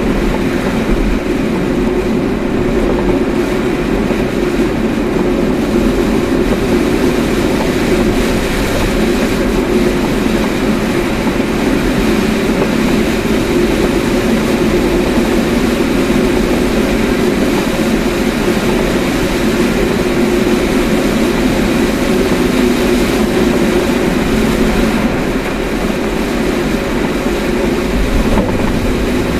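Steady drone of a car driving, engine and tyre noise heard from inside the cabin.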